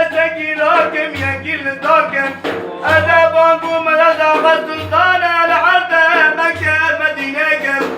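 A man singing a madih, an Islamic praise song, in a long, melismatic line, over a low bass note that repeats about every two seconds.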